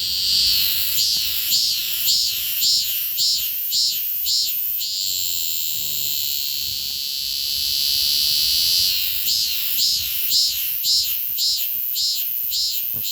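Cicada singing from a few centimetres away: a run of high pulsing calls, about two a second, then a steady high buzz for several seconds, then the pulsing calls again.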